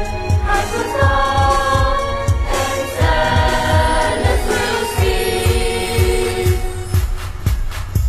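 A choir singing long held notes over music with a steady drumbeat; about seven seconds in the voices stop and the beat continues alone.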